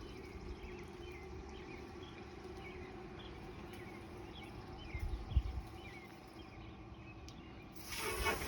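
Faint outdoor background with many small bird chirps. There are a couple of soft knocks about five seconds in, and a hiss rises near the end.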